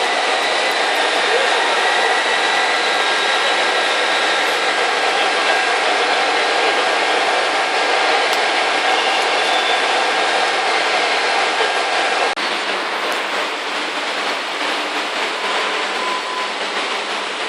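Electric motor running fully submerged in water, a steady rushing noise with a faint whine; about twelve seconds in the sound becomes a little quieter. The motor, treated with a water-proofing compound, is still running normally after about 20 minutes under water.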